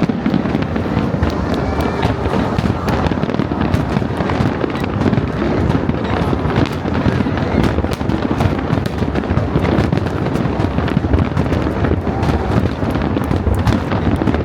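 Fireworks display going off continuously, with dense overlapping bangs and crackling and no pause, and people's voices among it.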